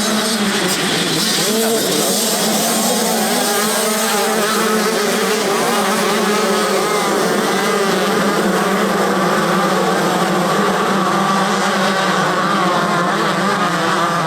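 Several motocross bikes racing, their engines revving up and down over one another.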